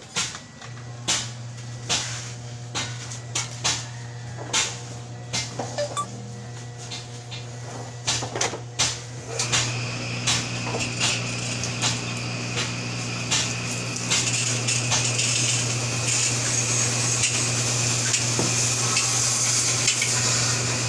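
Sharp metal clinks and knocks of tools on metal parts, over a steady low machine hum. From about ten seconds in a hissing noise joins and grows louder.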